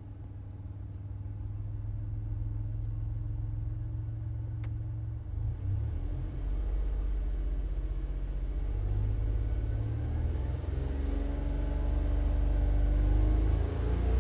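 Nissan Roox's 660 cc three-cylinder turbo engine running, a steady low rumble that grows gradually louder through the second half.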